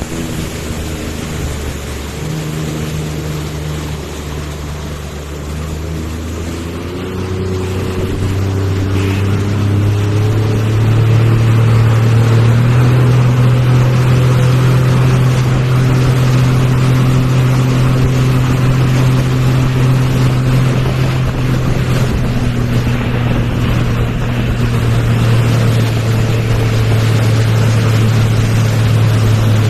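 Motorboat engine towing a banana boat, rising in pitch and getting louder as it speeds up, then running steadily at speed, with rushing water and wind noise underneath.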